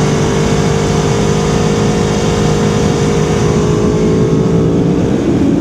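Aprilia Tuono V4R's 1000 cc V4 engine running on the road at steady revs. Its note sags slowly, then drops to a lower pitch near the end as the revs come down.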